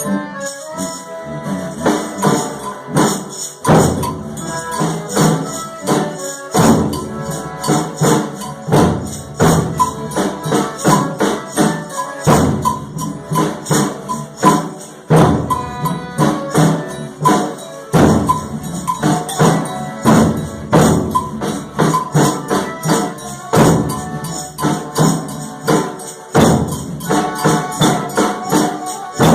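Folia de Reis instrumental interlude: pandeiros (frame-drum tambourines) jingling in a steady, quick beat under an accordion melody, with no singing.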